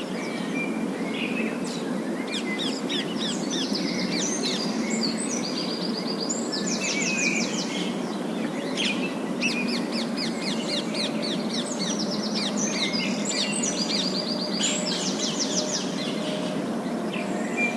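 Several parakeets chattering and chirping, with repeated fast rattling trills, over a steady background noise.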